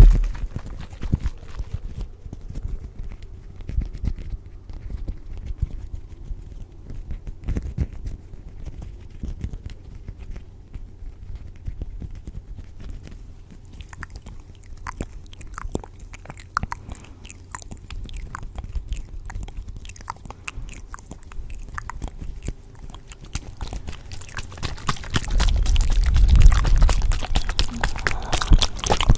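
Layered close-miked ASMR sounds: a steady stream of small crunchy clicks and crackles over a faint low hum, with a low rumble swelling up near the end.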